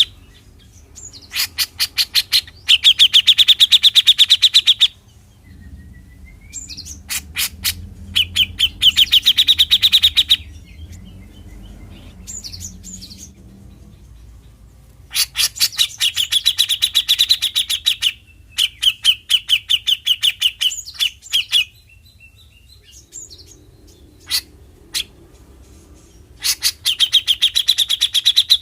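Cucak jenggot (grey-cheeked bulbul) giving its 'besetan' call: bursts of fast, rattling repeated notes, each burst a second or two long, separated by short pauses.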